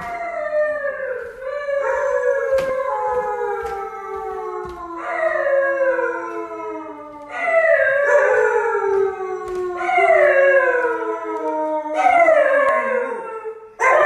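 A dog howling: several long howls in a row, each starting high and sliding down in pitch.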